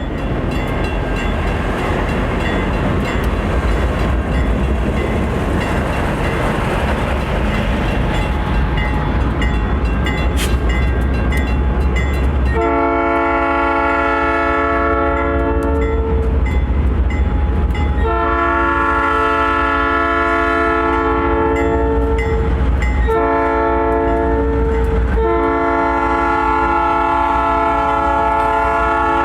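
Diesel locomotives running with a deep, steady rumble. About halfway through, a multi-chime air horn sounds long, long, short, long: the standard grade-crossing signal.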